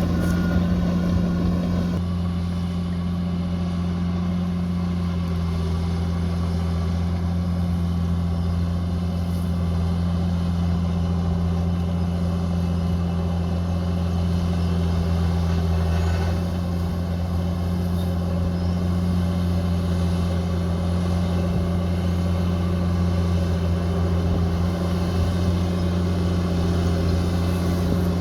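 Bulldozer's diesel engine running steadily, a low even drone that holds the same pitch throughout.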